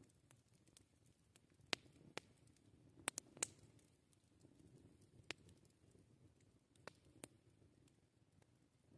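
Wood campfire crackling, faint: scattered sharp pops at irregular intervals, with a quick cluster of them about three seconds in, over a soft low rumble.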